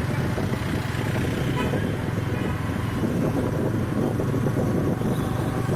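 Yamaha MT-15 motorcycle running steadily on the move, its engine hum mixed with road noise.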